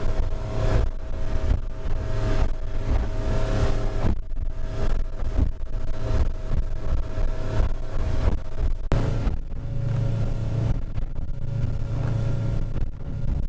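Engine running steadily under way, a low rumble with wind buffeting the microphone; the sound shifts about nine seconds in.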